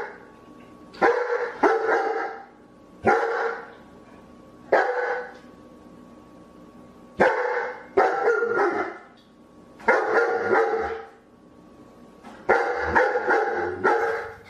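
A dog barking in short bursts, one or a few barks at a time, with pauses of a second or two between them; the longest run of barks comes near the end.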